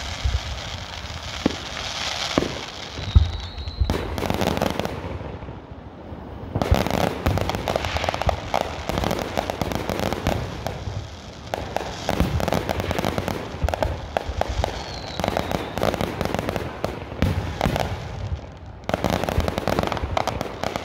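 Aerial firework display: shells bursting, with a few deep booms in the first three seconds, then long spells of dense, rapid crackling as several shells go off at once.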